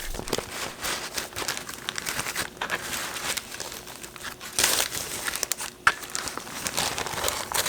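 Parchment paper crinkling and rustling in irregular bursts as a homemade keto marshmallow slab is lifted out of its lined container and unwrapped.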